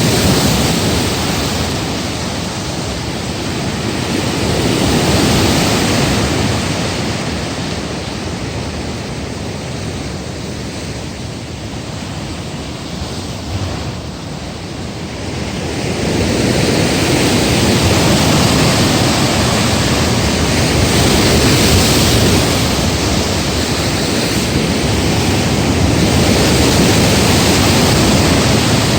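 Heavy typhoon surf breaking against a breakwater, with wind: a continuous, loud noise of waves that eases somewhat in the middle and swells again from about halfway through.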